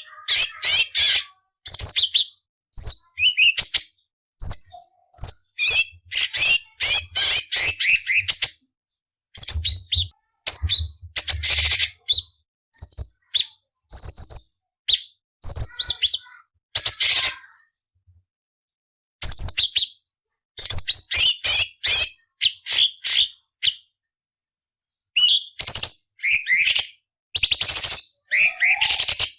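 Cucak cungkok leafbird singing a fast, harsh song of rapid scratchy chatters mixed with short whistled notes, broken by two brief pauses in the second half.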